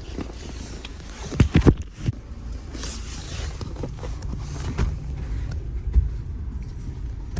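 Things being handled inside a car: a quick run of loud knocks about a second and a half in, then softer knocks and rustling over a low steady rumble.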